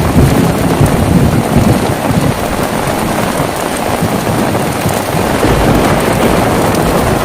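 Heavy, steady rain, with a low roll of thunder that rumbles in at the start and is heaviest over the first two seconds before fading under the rain.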